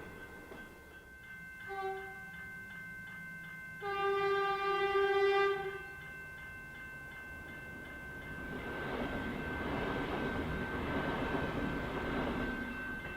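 Melbourne suburban electric train sounding its horn, a short blast about two seconds in and a longer, louder one about four seconds in, then rumbling past from about eight seconds on. Level crossing bells ring steadily throughout.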